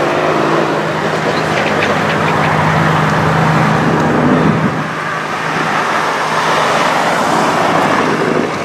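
A car engine running steadily at a constant, low pitch amid street traffic noise; the level drops a little about halfway through.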